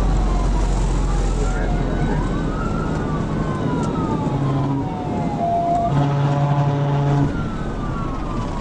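Police car siren wailing in slow rising and falling sweeps over the cruiser's engine and road noise. A steady buzzy tone sounds for about a second, starting around six seconds in.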